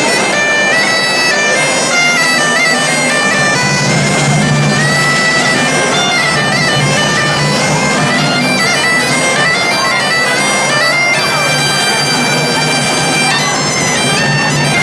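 A band of reed pipes playing a melody together in unison, with steadier low notes underneath.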